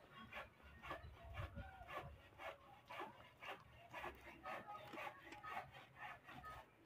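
Quiet chewing of crispy fried fish close to the microphone: soft, irregular crunches and mouth clicks, about two a second.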